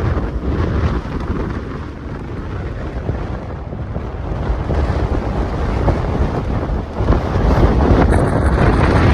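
Strong, gusty wind buffeting the microphone, easing slightly a second or two in and then growing stronger for the last couple of seconds.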